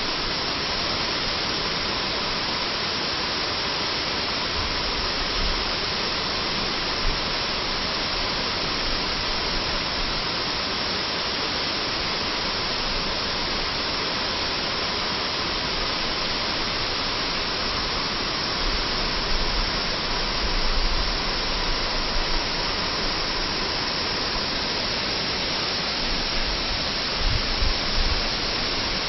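Waterfall, a steady rush of falling water, with a few brief low rumbles in the last third.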